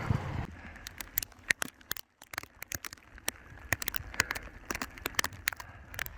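Rain drops tapping on a tent's nylon fabric: scattered sharp taps and crackles at uneven spacing, several a second, over a faint hiss.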